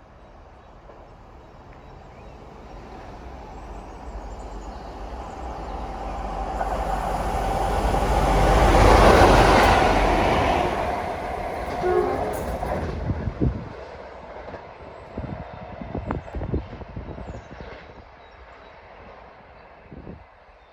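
Two Sulzer-engined diesel locomotives, a Class 33 and a Class 44 Peak, running light engine past: the engine noise grows louder to a peak about nine seconds in and then fades as they go away, with a run of sharp wheel clicks over the rail joints in the second half.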